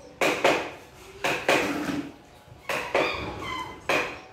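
Sharp knocks or clacks in pairs, a pair a little more than once a second, some followed by a short faint ringing.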